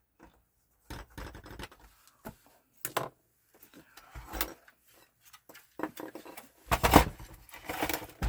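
Hands handling PS4 console parts during a repair: irregular knocks, clicks and rustles of plastic and metal, the loudest knock about seven seconds in.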